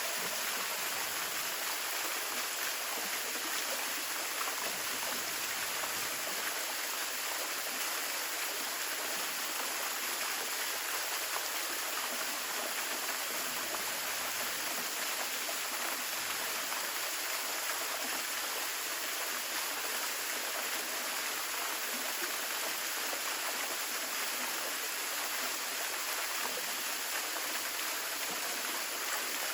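Waterfall about five metres high, water falling and splashing into a pool as a steady, even rush.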